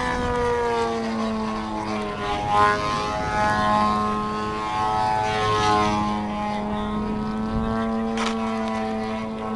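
Radio-controlled aerobatic model airplane's engine and propeller buzzing overhead, its pitch falling, rising and falling again as the plane passes and the throttle changes.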